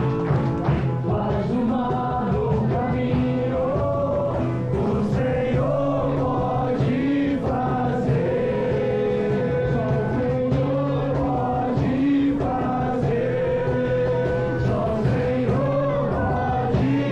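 Worship song: a group of voices singing together over band accompaniment.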